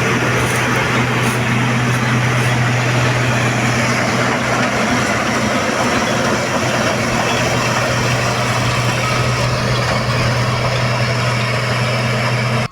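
Heavy diesel farm machinery running steadily: a constant low engine hum with a wide mechanical rush above it.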